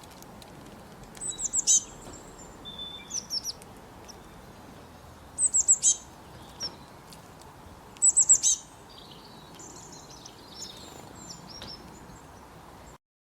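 Small birds singing: three loud, high phrases of four or five quick downward-sliding notes, about 3 to 4 seconds apart, with softer chirps between them over a steady background hiss. The sound cuts off just before the end.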